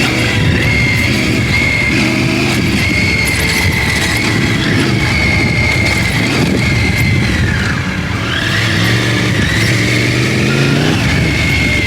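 Triumph Tiger 900 Rally Pro's three-cylinder engine running on a dirt trail, its revs rising and falling with the throttle. The revs drop about eight seconds in and then climb again.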